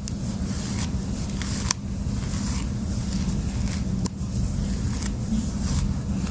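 Wide-tooth comb dragged through thick, coily 4C hair: irregular rasping scrapes and small clicks, over a steady low rumble.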